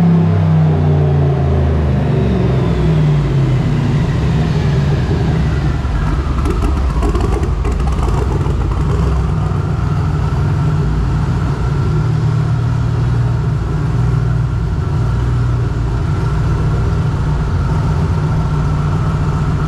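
Turbocharged LS V8 on the dyno coming down off a pull: the revs fall over the first few seconds, then it runs steadily. A high whine slides down in pitch over several seconds and then holds steady.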